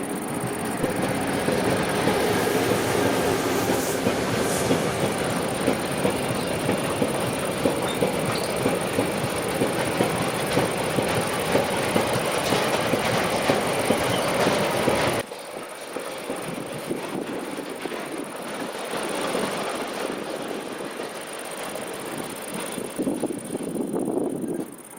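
A train running past on the track: a loud, steady rush of wheels on rail. About fifteen seconds in the level drops sharply to a quieter rolling rumble.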